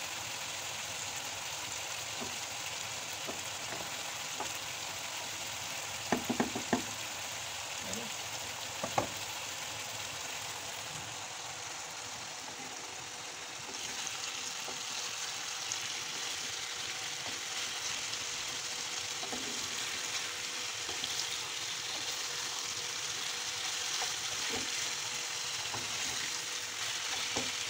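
Diced chicken breast sizzling in a frying pan as it is stirred with a wooden spoon; in the first half, a wooden spoon stirs pasta in boiling water and knocks against the pan a few times, and the frying grows louder about halfway through.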